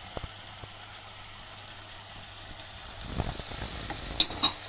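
Chicken pieces and yogurt sizzling gently in a frying pan, with a few soft knocks about three seconds in and two sharp clinks near the end.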